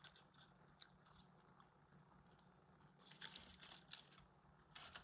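Faint chewing and crunching on a fried chicken sandwich, with a few soft crunches a little past halfway and again near the end, over a low room hum.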